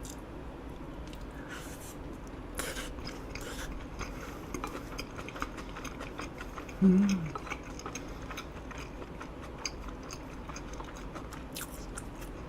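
Close-miked eating: a mouthful of eel over rice being bitten and chewed, with many small wet mouth clicks. A short hummed 'mm' comes about seven seconds in.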